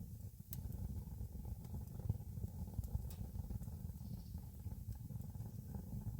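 Campfire burning with a steady low rumble and a few sharp crackles of the wood.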